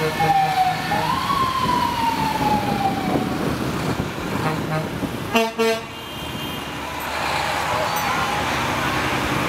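Fire truck siren that rises in the first second and then slowly winds down, followed about five and a half seconds in by a short horn blast, over the steady running of truck engines.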